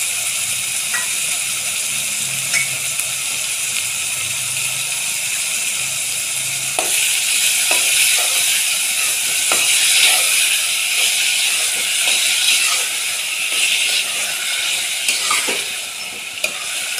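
Onion, garlic and tomato frying in oil in a metal pot, a steady sizzle. From about seven seconds in, a metal spoon stirs the mix, scraping and knocking against the pot several times, and the sizzle grows louder.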